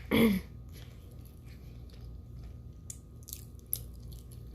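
A person chewing food close to the microphone, with a few soft mouth clicks and smacks about three to four seconds in.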